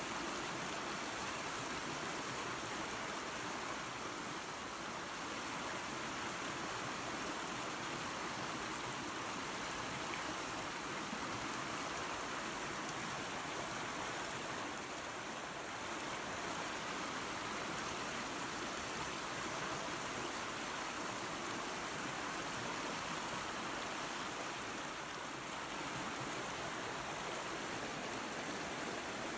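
Waterfall and creek water rushing steadily over rocks: an even, unbroken splashing hiss with no pauses.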